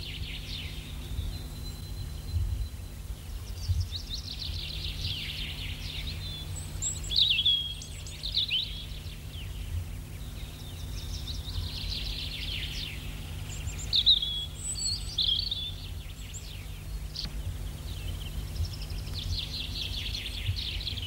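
Wild birds singing: long rapid trills lasting a couple of seconds recur every several seconds, with short chirps in between, over a steady low hum.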